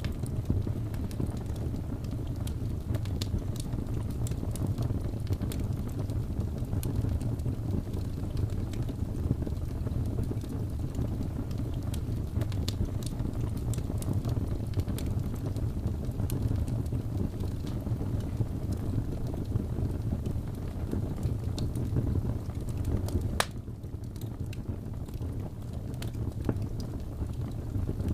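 Log fire in a fireplace crackling, with a steady low rumble of the flames under scattered sharp pops and snaps. One louder crack comes late on, after which the fire is a little quieter.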